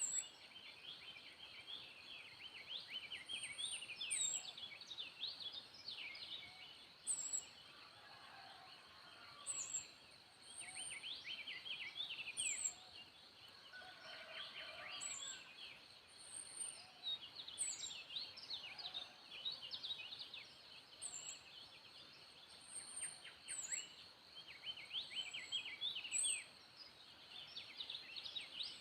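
Several wild birds singing together, a dense mix of quick chirps and trills, with a high, thin call repeating every second or two over them.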